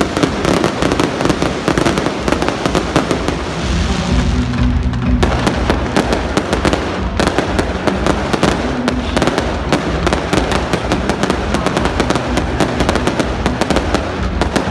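Fireworks barrage: dense, rapid crackling and banging of many shells bursting at once, with music playing underneath.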